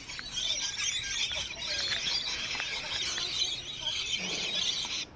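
A flock of lorikeets screeching and chattering in a dense, continuous high-pitched din, likely bird calls played to lure lorikeets to the feeder. The chatter cuts off suddenly about five seconds in.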